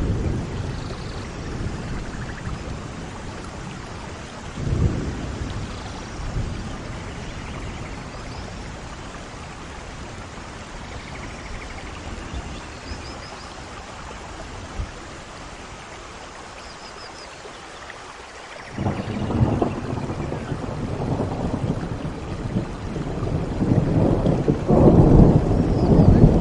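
Steady rain with rolling thunder: low rumbles near the start and about five seconds in, then a long rumble that builds from about two-thirds of the way through and is loudest near the end.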